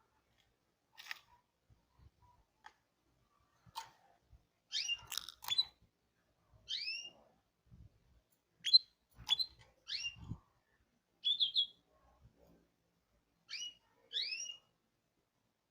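Pet canary chirping: about a dozen short, separate curved notes at irregular intervals of roughly a second, with faint low taps in between.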